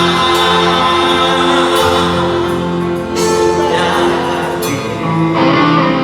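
Live band music with singing, recorded raw from the audience: sustained notes from the instruments and voice carry through without a break between lyric lines.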